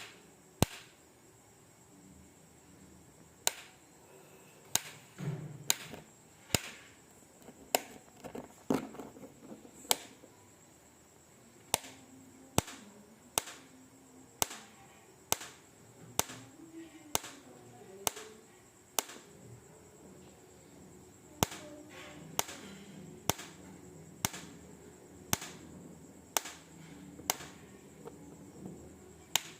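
An insect making sharp single 'tik' clicks, about one a second with a short pause partway through.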